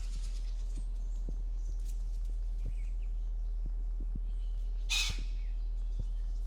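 A ram gives one short, sharp snort about five seconds in, over a steady low hum and scattered soft thuds.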